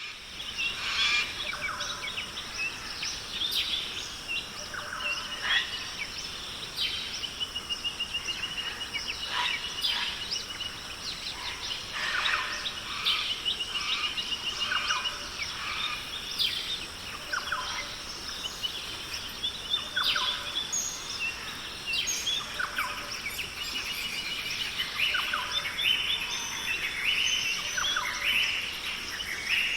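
Many wild birds chirping, whistling and trilling over one another, with a steady high tone in the background. The sound starts abruptly.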